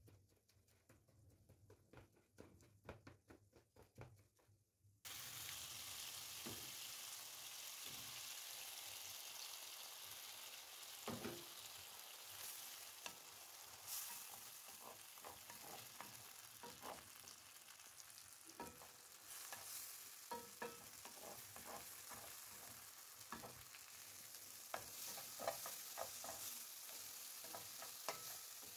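Tomatoes and eggs sizzling in a nonstick frying pan, with a steady hiss and frequent scrapes and taps as a wooden spatula stirs them. Before the sizzling starts there are a few seconds of faint clicks and splashes from hands washing leaves in a basin of water.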